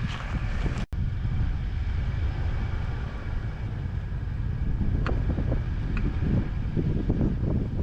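4x4 driving on a snowy mountain track, a steady low rumble of engine and tyres with wind buffeting the microphone. The sound cuts out for an instant about a second in.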